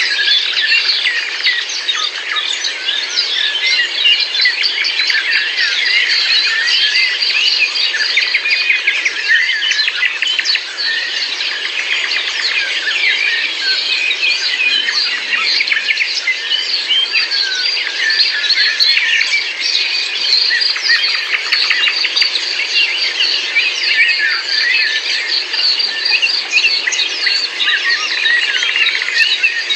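A dense chorus of many birds chirping and singing at once, a continuous tangle of short overlapping calls.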